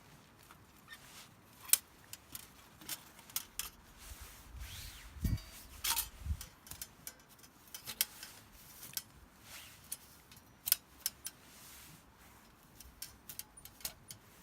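Irregular sharp clicks, taps and scrapes from something being handled by hand, with a few louder clacks spread through and a short dull thud about five seconds in.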